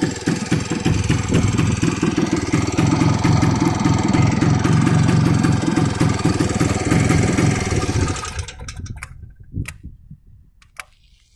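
Izh Planeta 3 single-cylinder two-stroke motorcycle engine running with a rapid, uneven pulse, unstable running that points to a faulty ignition coil. It dies away about eight seconds in, leaving a few faint clicks.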